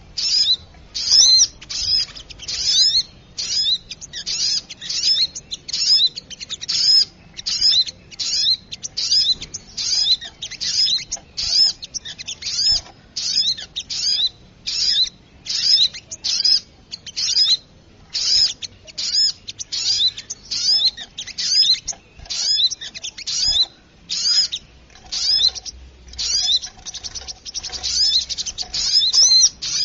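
Bird-lure recording of a brown-throated sunbird (sogok ontong) giving its agitated call. It is a fast, unbroken series of sharp, high chirps, about two a second.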